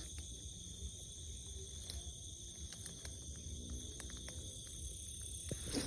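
Steady chorus of insects, crickets or cicadas, holding several constant high-pitched buzzing tones, over a low rumble with a few faint clicks. A short louder rustle comes near the end.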